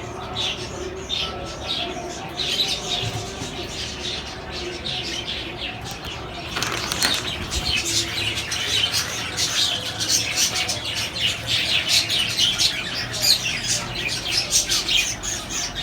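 A flock of small caged parrots chirping and chattering, with wings flapping, growing busier from about six seconds in.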